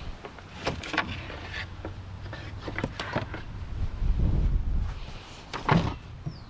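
A scatter of sharp knocks and clicks from hard objects being handled, the loudest near the end, over a low rumble of wind on the microphone.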